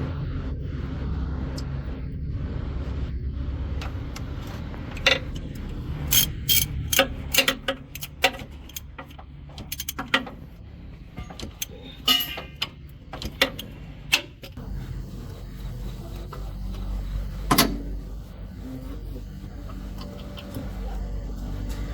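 Heavy truck engine running with a steady low rumble, under a string of sharp metallic clicks and knocks from about five to fourteen seconds in and one loud knock a few seconds before the end.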